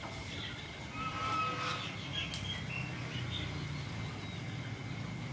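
Small birds chirping with short, high calls, over a steady low background rumble.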